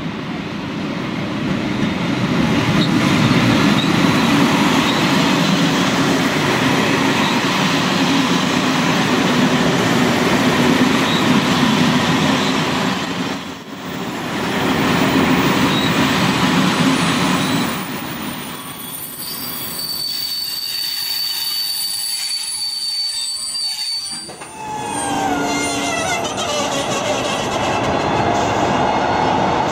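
A Czech Railways class 242 electric locomotive and its passenger coaches roll past with a loud, steady rumble of wheels on rail. The train squeals high and steadily for a few seconds as it slows for the stop. Near the end, after a cut, another class 242 locomotive moves along with whining tones that fall in pitch over a low hum.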